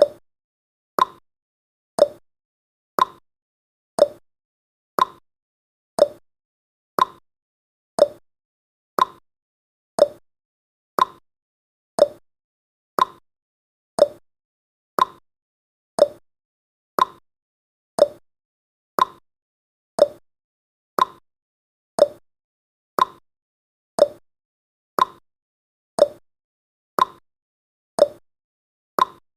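Countdown timer's clock-ticking sound effect: one short tick every second, alternating between a higher and a lower tick like a tick-tock, with silence in between.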